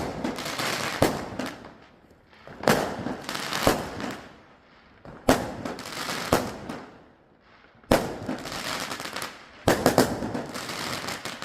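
Fireworks going off: a sharp bang about every two and a half seconds, each trailed by about a second of crackling that fades. Near the end a few bangs come in quick succession.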